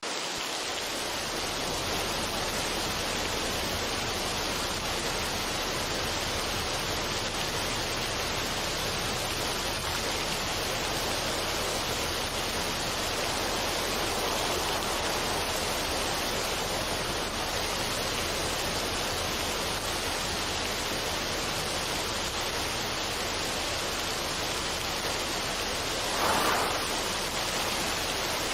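Steady, even rushing noise with no music, a relaxation noise track. It swells briefly about 26 seconds in.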